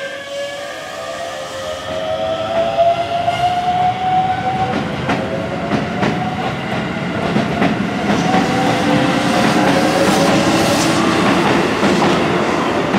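Keisei electric commuter train pulling away: its traction motors whine, rising slowly in pitch over the first few seconds, then the wheels clack over the rail joints as it gets louder.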